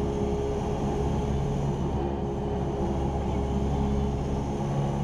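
Cessna 172R Skyhawk's four-cylinder Lycoming engine and propeller droning steadily at cruise power, heard inside the cockpit.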